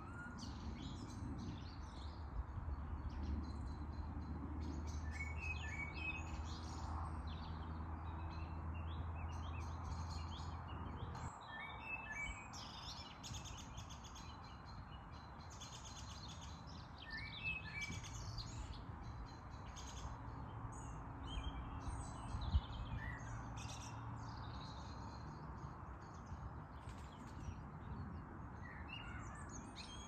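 Several songbirds chirping and singing, with one short phrase of a few quick notes coming back every five or six seconds. Under them is a low steady hum that stops about a third of the way through and returns briefly past the middle, and there is a single sharp click about two-thirds through.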